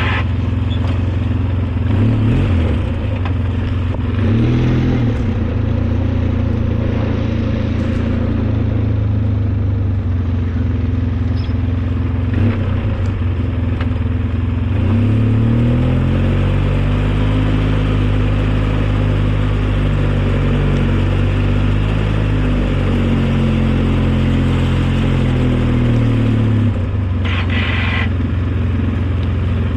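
Engine of a snowplow vehicle running steadily under load, its speed shifting up and down from about halfway through as it works. A brief harsher, higher-pitched rasp comes near the end.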